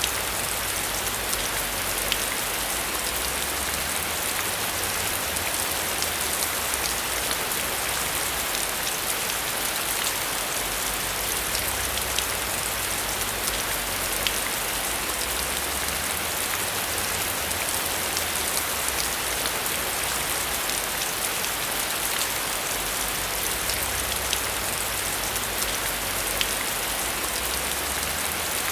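Heavy rain falling steadily: a dense, even hiss with many small drop ticks through it and a faint low rumble beneath.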